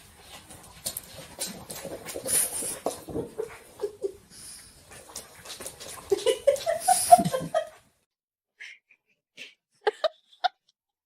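A dog vocalizing, with a rising pitched call near the end, over scuffling and clicking noises. The sound cuts off abruptly about eight seconds in, followed by a few faint clicks.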